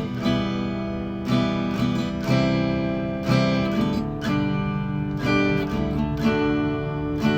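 Instrumental passage of a song: acoustic guitar strumming chords, with a fresh strum roughly once a second and no singing.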